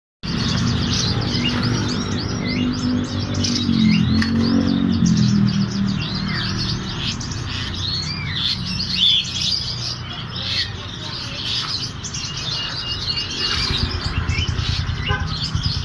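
Birds chirping and twittering, many short calls overlapping continuously, over a low background hum.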